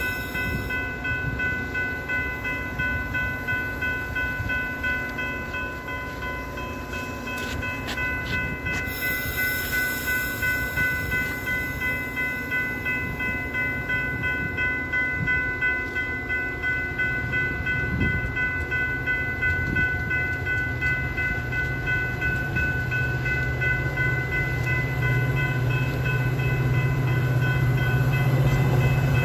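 Metra commuter train of bilevel cars rolling past at low speed, with a steady rumble and a constant high whine. Near the end the diesel locomotive's engine drone grows louder as it comes up.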